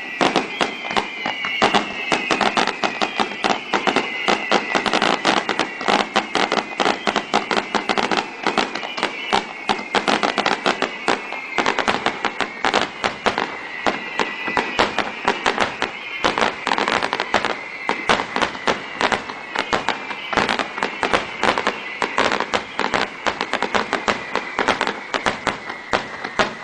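Fireworks barrage: a continuous rapid run of bangs and crackles, several a second, with high whistles sliding down in pitch again and again.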